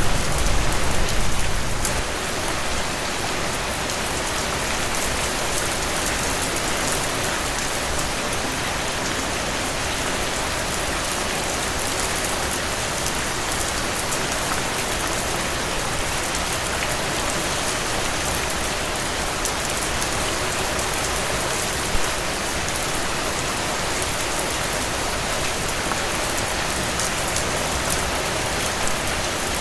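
Steady rain falling on a surface, an even hiss of many drops. A deeper low rumble dies away about two seconds in, and one sharper drop or tap stands out about two-thirds through.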